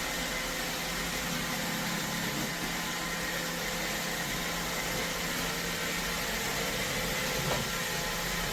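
iRobot Roomba Vac Essential robot vacuum running, a steady even whir of its motors and brushes with a faint hum.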